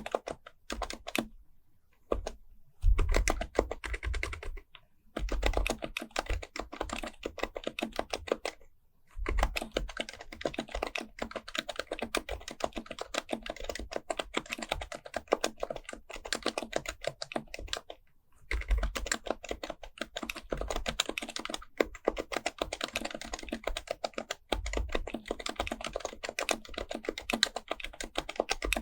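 Fast continuous typing on an HHKB Professional Type-S, a silenced Topre electrostatic-capacitive keyboard: dense runs of soft keystrokes with a few short pauses and occasional deeper thumps.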